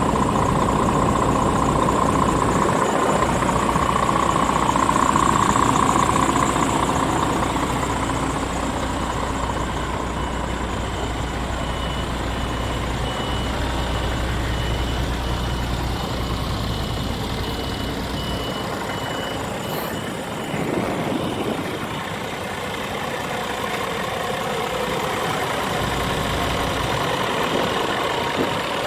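Scania R450 truck's diesel engine idling steadily. Its deep low rumble fades markedly about two-thirds of the way through.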